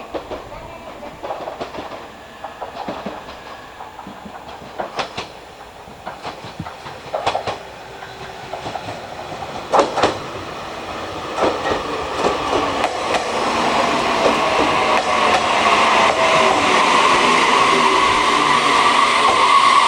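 Train on the rails: wheels clacking over rail joints, then a steady rush of running noise that grows louder in the second half as the train draws close, with a thin whine that falls slightly in pitch partway through.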